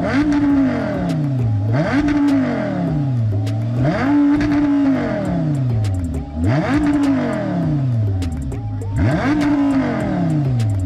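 A car engine free-revved hard again and again: each rev climbs quickly, holds for a moment and falls back toward idle, about every two to two and a half seconds, five times in a row.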